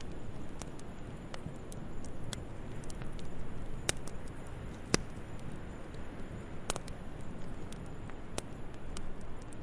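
Wood fire crackling in a fireplace: a low steady rumble with scattered sharp pops and snaps, two louder ones around four and five seconds in.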